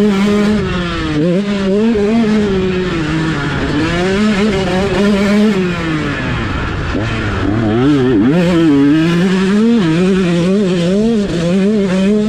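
Dirt bike engine being ridden hard, its pitch rising and falling over and over as the throttle is opened and closed, with a lower dip about seven seconds in.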